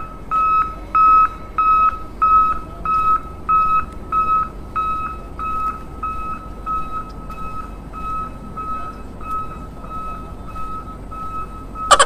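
Electronic reversing-alarm beeping, a single high tone repeating about twice a second and growing fainter after the middle. Right at the end a loud, fast-warbling siren-like tone cuts in.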